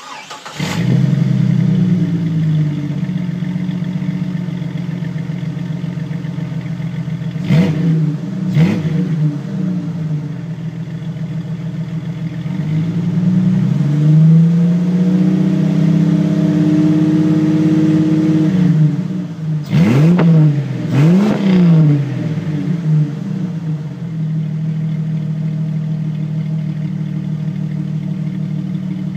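1998 Jeep Cherokee XJ's stock 4.0L straight-six, exhaust through a Magnaflow high-flow cat and SpinTech Sportsman Street muffler. It starts up, idles, is revved twice quickly, then held at higher revs for several seconds, blipped a few times, and settles back to a steady idle.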